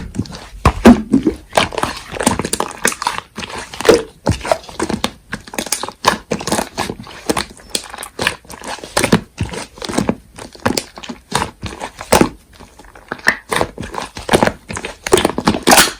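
Slime being squeezed and pressed by hand, making irregular sticky clicks and crackling pops.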